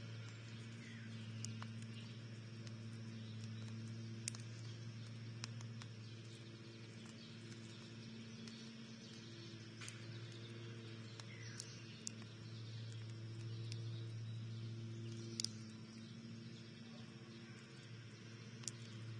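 Faint bird-feeder ambience: scattered sharp clicks and taps from animals at the feeder, with a few faint bird chirps, over a steady low hum.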